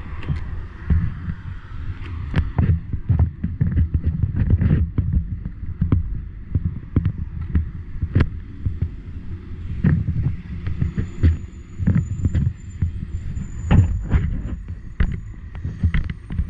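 Loud, uneven low rumble of wind and vehicle noise buffeting the microphone, with many scattered knocks and clicks.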